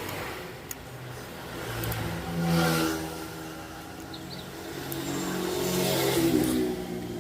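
A small petrol engine revving up and back down twice, with the second rise longer and steadier than the first.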